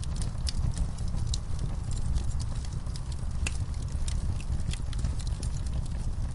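Wood fire burning in a fireplace: a steady low rumble of flame with scattered sharp, irregular crackles and pops from the burning logs.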